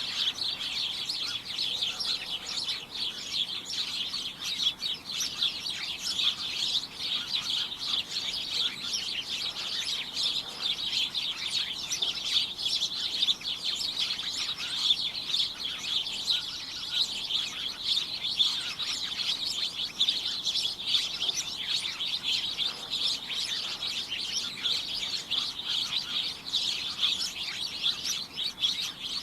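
Many small birds chirping at once, a dense, cacophonous tangle of short high-pitched calls that never lets up.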